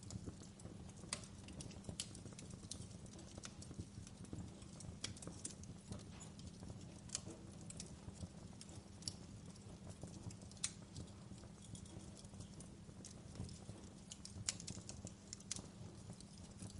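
Wood fire crackling: irregular sharp snaps and pops over a faint, steady low rumble.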